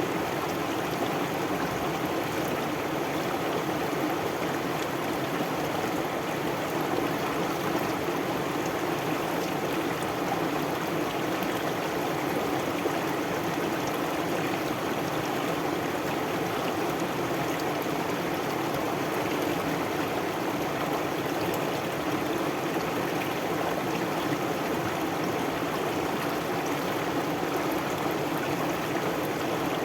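Stream water flowing steadily with an even, unbroken rush.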